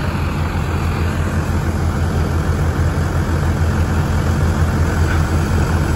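Vehicle engine running steadily with a strong, even low drone.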